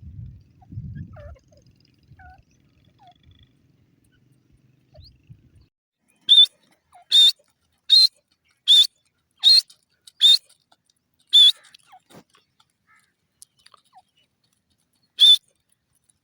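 Grey francolin calling: a run of seven loud, shrill, high-pitched notes, about one every three-quarters of a second, starting about six seconds in. After a pause of several seconds comes one more note.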